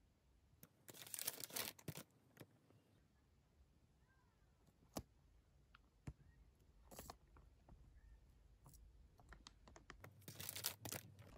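Plastic protective film on acrylic standees crinkling as it is handled, in two short bursts, about a second in and near the end, with scattered light clicks and taps between.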